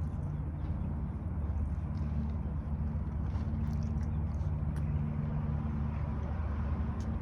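A steady low engine hum, even in pitch, with a few faint clicks over it.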